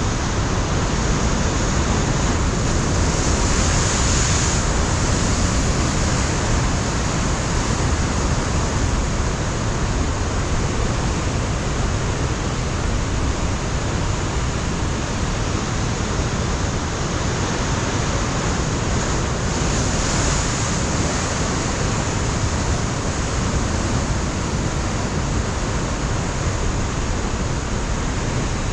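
Ocean surf breaking against a rocky shore, a continuous roar of water, with gusts of wind on the microphone swelling a few seconds in and again about two-thirds of the way through.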